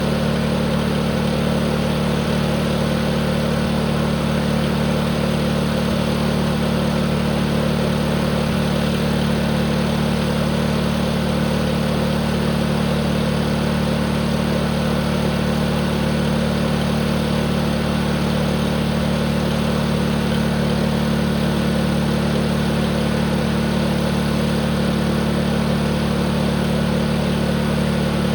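Tractor engine running steadily at a constant speed, with no change in pitch or loudness.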